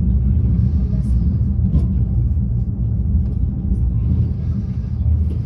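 Afrosiyob high-speed train (a Talgo 250) running at speed: a steady, heavy low rumble with a few faint light clicks.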